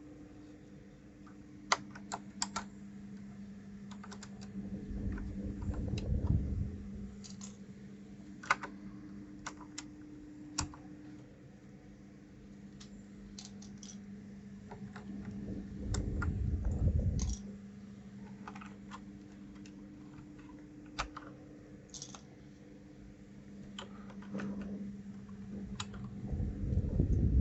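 Irregular, sparse clicks from a 1st Player DK 5.0 mechanical keyboard as its keys and keycaps are pressed and handled, over a steady low hum. Three times a dull low rumble swells up for a second or two.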